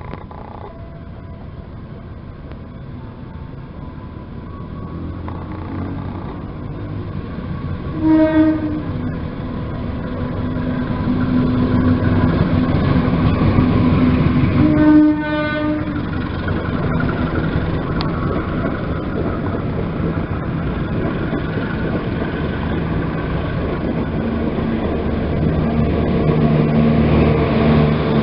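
Train approaching and running through a station without stopping, its horn sounding two short blasts about 8 and 15 seconds in, with the rumble of wheels and carriages growing louder as it passes.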